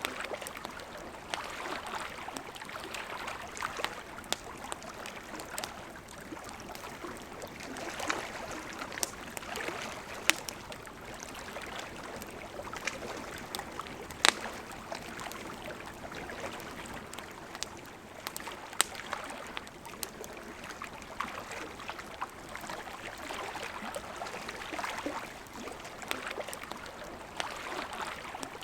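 River water flowing steadily, with the sharp, irregular crackles and pops of a burning campfire over it; one pop about halfway through is the loudest.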